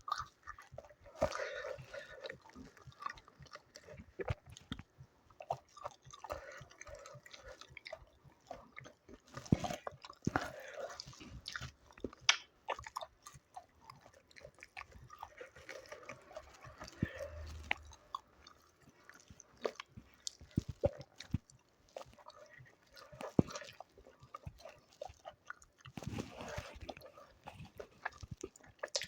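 A person eating close to the microphone: irregular chewing and biting with many short mouth clicks.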